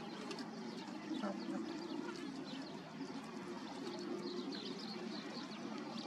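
Birds chirping in the background, many short high chirps scattered throughout.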